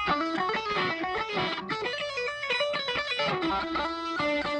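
Guitar, probably electric, playing quick runs of single notes that step up and down in pitch.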